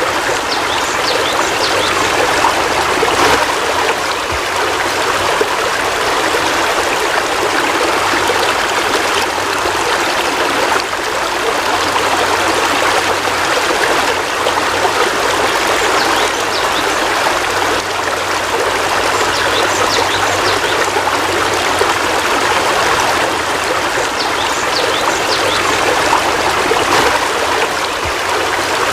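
Heavy rain falling steadily: a constant, even hiss with scattered small splashes.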